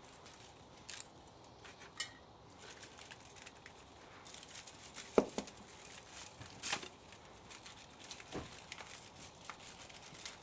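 Scattered clicks and knocks of metal parts and hand tools being handled while a motor is taken apart for scrap. There is a sharp knock about five seconds in, a brief clatter about a second and a half later, and a smaller knock near the end.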